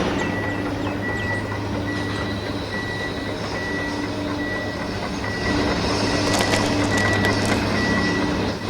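Small electric motors of a miniature model machine whirring steadily, with a short beep that repeats over and over. The whirring grows louder about halfway through, with a few sharp clicks.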